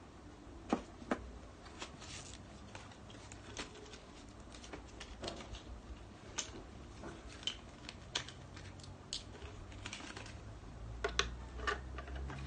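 Irregular light clicks and taps of AAA batteries and a plastic battery compartment being handled, with the clicks coming closer together near the end.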